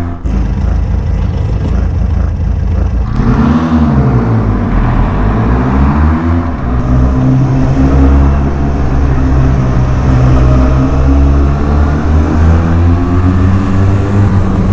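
Motorcycle engine running under way with wind rushing past, most likely the rider's own Benelli TRK 502X parallel twin. The revs rise and fall a couple of times about three to six seconds in, then hold steady.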